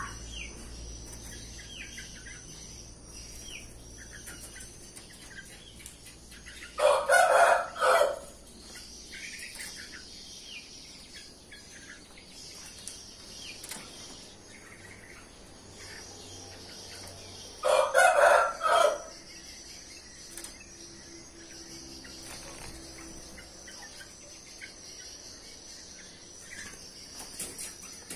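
Rooster crowing twice, about ten seconds apart, each crow lasting a second or two. Between the crows, small birds chirp faintly over a steady high-pitched hum.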